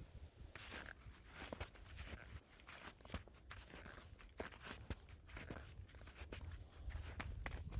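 Footsteps crunching in snow: a run of irregular, crisp crunches that starts about half a second in.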